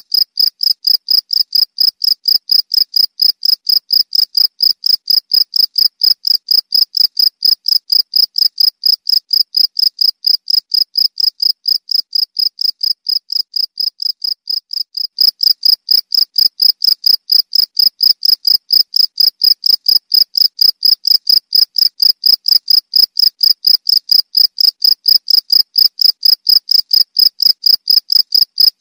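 Cricket chirping: a rapid, evenly repeated train of high-pitched chirps, a little softer for a few seconds around the middle.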